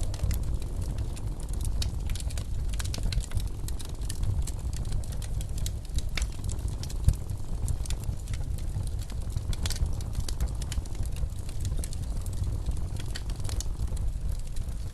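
Wood fire crackling with scattered pops over a low, steady rumble of blizzard wind, with one sharper pop about seven seconds in.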